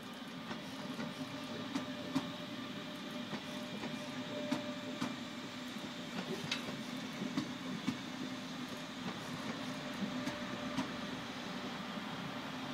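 DB Regio Class 425 electric multiple unit passing at moderate speed: a steady rolling rumble of wheels on rail, with scattered clicks as the wheels cross rail joints and points.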